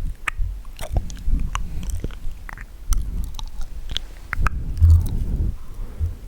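Wet mouth sounds close to the microphone: quick, irregular clicks and smacks of lips and tongue. A short low bump comes about five seconds in.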